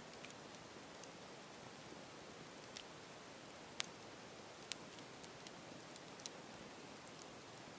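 Campfire crackling: a soft steady hiss with scattered sharp pops and snaps, the loudest pop a little under four seconds in.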